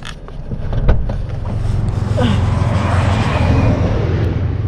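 Car running on the road, heard from inside the car: a steady low engine hum with road noise, two sharp clicks in the first second, and a louder rush of traffic noise that swells and fades in the middle.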